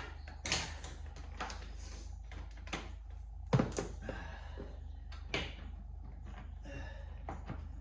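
A series of knocks and clacks from things being handled, with the loudest thump about three and a half seconds in, over a steady low hum.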